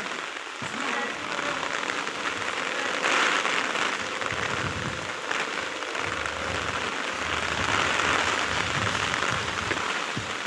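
Heavy rain pouring down steadily, swelling louder about three seconds in and again near eight seconds.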